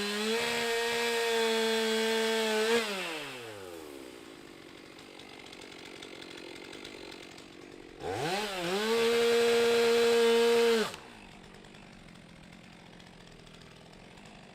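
Stihl MS 362 C-M two-stroke chainsaw held at full throttle, then let off so the revs fall away. About eight seconds in it revs back up to full throttle for about three seconds, then drops off abruptly.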